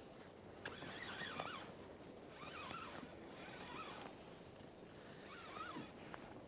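Birds calling over open water: three short wavering calls, about a second in, around three seconds and near six seconds, over a faint steady wash of water and wind.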